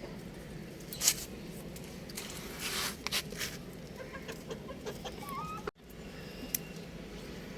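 Young rooster clucking with a few short, high chirping calls, over a steady low background. A sharp click about a second in and a brief rustle near three seconds are also heard.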